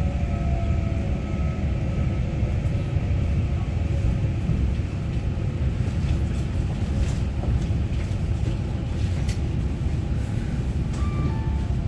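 Inside the cabin of a Taiwan Railway EMU900-series electric commuter train: a steady low rumble, with faint motor tones fading in the first couple of seconds and a few light clicks later on.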